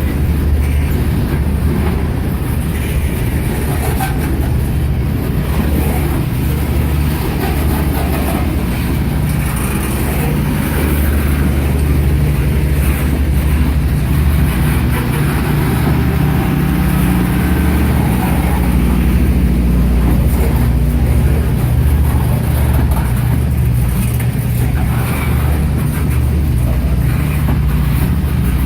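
Slow CSX manifest freight train rolling past, a steady low rumble of the cars on the rails.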